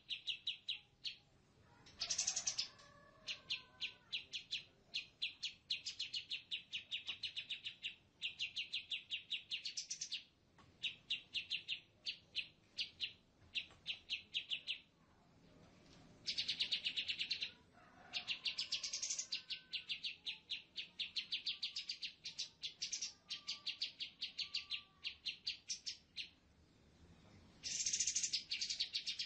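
A bird chirping in fast runs of short, high notes, each run lasting a few seconds with short pauses between.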